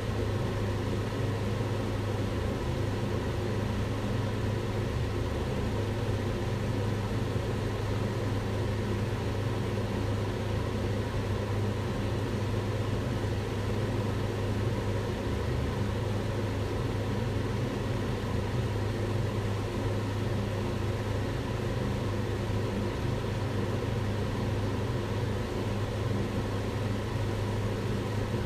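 Kitchen range hood extractor fan running steadily: a constant whooshing drone with a strong low hum and a few faint steady tones above it.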